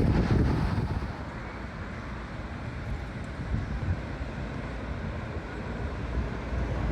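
Low rumble of a passing vehicle with wind buffeting the microphone, loudest in the first second and then dropping to a steadier, quieter rumble.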